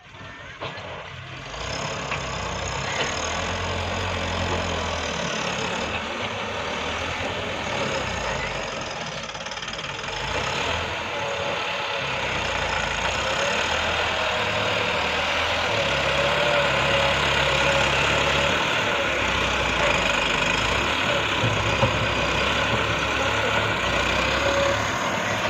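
Tractor diesel engine running under load while loading a trolley, its note rising and falling in steps as the revs change.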